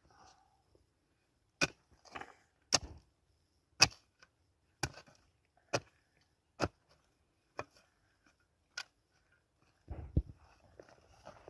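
A series of sharp chopping strikes, about one a second, eight in a row, followed near the end by a duller scuffling thud.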